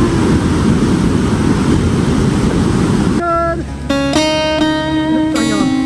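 A loud, steady rushing noise cuts off abruptly about three seconds in. Plucked acoustic guitar music follows, with clear single notes.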